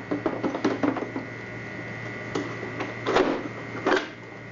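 Quick clicks and knocks of the steam iron's parts being handled and fitted together, then two louder, longer rattling knocks near the end.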